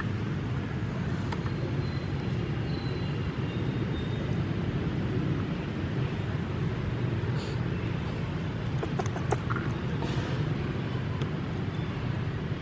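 Steady low outdoor rumble, with a few faint clicks and brief faint high chirps.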